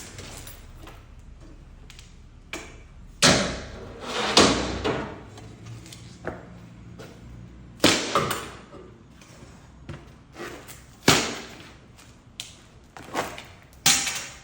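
Repeated loud bangs and thuds: about five heavy impacts a few seconds apart, each dying away quickly, with smaller knocks between them.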